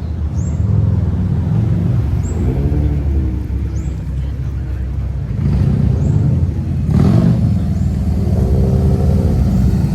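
Car engine running close by with a low rumble, its pitch rising and falling a little about three seconds in and again near the end, and a louder surge about seven seconds in.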